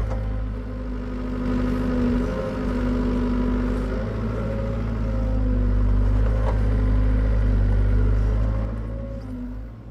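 Hitachi EX75UR excavator's diesel engine running as it digs: a steady low drone with a whine that comes and goes, its loudness rising and falling with the work, easing off near the end.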